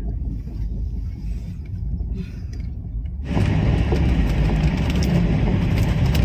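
Moving passenger train heard from inside the coach: a steady low rumble of wheels running on the rails, which turns louder and fuller about three seconds in.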